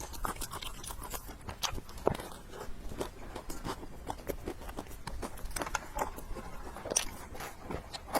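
Close-miked mouth sounds of someone eating: chewing and biting, with many irregular small wet clicks and crunches and a sharper click about two seconds in.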